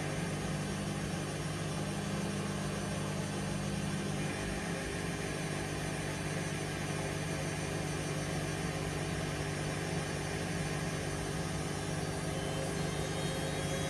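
Hoover Vision Dynamic washing machine on its spin cycle: a steady motor hum and whine from the spinning drum, running smoothly with no banging.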